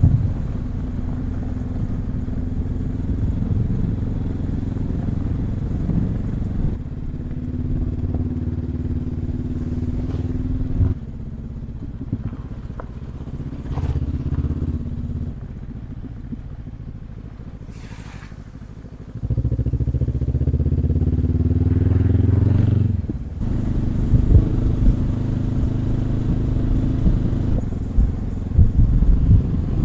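Dual-sport motorcycle engine under way, its revs rising and falling several times as the rider works the throttle and gears. The revs ease off to a quieter spell in the middle, then surge loudly, with a few sharp knocks near the end.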